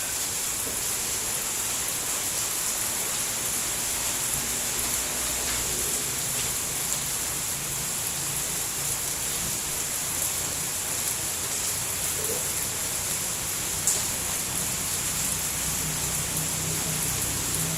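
Steady rain falling, an even hiss, with one sharp tick of a drop about fourteen seconds in.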